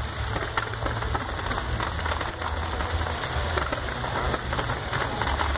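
Fireworks crackling: a dense, rain-like patter of many small pops, over a steady low rumble.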